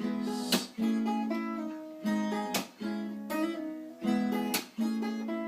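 Acoustic guitar strumming chords, with a sharp strum about every one to two seconds and the notes ringing on between them.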